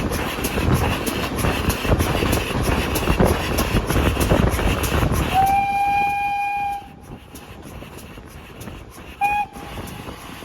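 A train running with a steady, regularly repeating clatter. About five seconds in it sounds one long high single-note blast, then a short second toot near the end.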